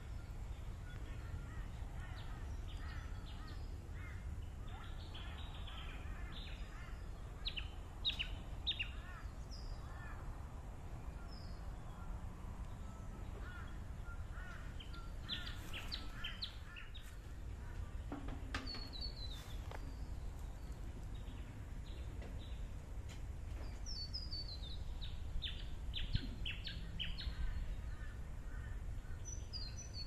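Wild birds calling, in three spells of quick, sharp, repeated high notes, over a steady low background rumble.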